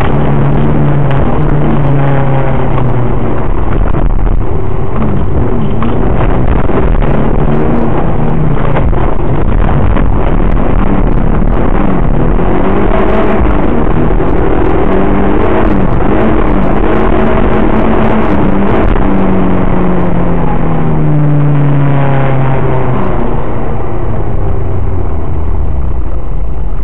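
BMW E36 318is's 1.8-litre four-cylinder engine, heard from inside the cabin through a dashcam microphone, revving up and dropping back again and again as the car is driven hard, with a long fall in revs near the end. Road and tyre noise rumbles underneath throughout.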